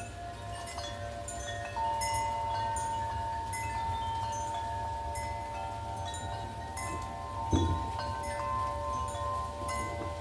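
Wind chimes ringing as the wind swings them, many sustained notes struck at irregular times and overlapping. A steady low wind rumble lies underneath, with a brief low thump about seven and a half seconds in.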